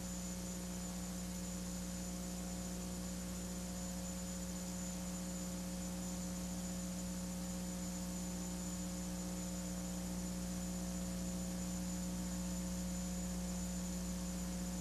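Steady electrical mains hum with hiss from the recording, holding one low tone with fainter overtones and not changing.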